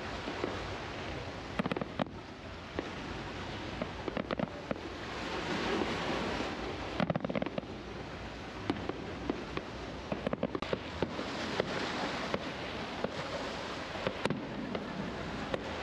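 Fireworks display going off: scattered sharp bangs and clusters of crackling over a steady background rumble.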